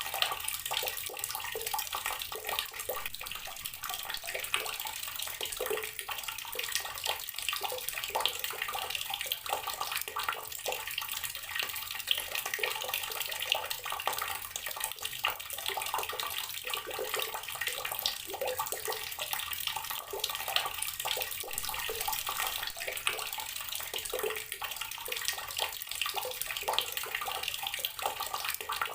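Water running steadily from an outdoor garden tap, splashing as it falls.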